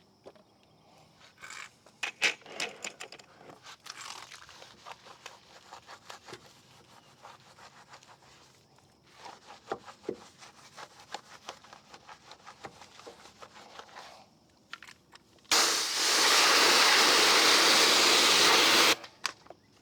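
Brush scrubbing a wheel and tire in quick, uneven strokes with scattered clicks, then a loud, steady jet of pressure-washer spray for about three and a half seconds, starting and stopping abruptly, rinsing the dirty brush.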